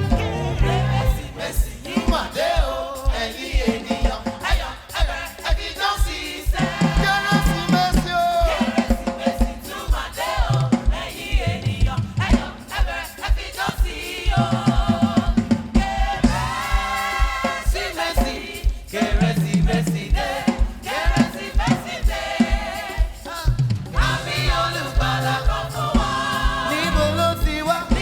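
Live gospel music: singers over a band with a steady, even beat in the bass.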